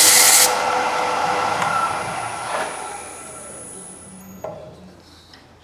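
Sandpaper hissing against the spinning wooden workpiece for a moment, then the wood lathe running down after it is switched off, its hum fading away over about four seconds. A single click follows near the end.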